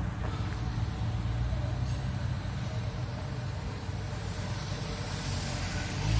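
Motor vehicle engines in street traffic: a steady low engine hum, with a vehicle growing louder near the end as it comes close.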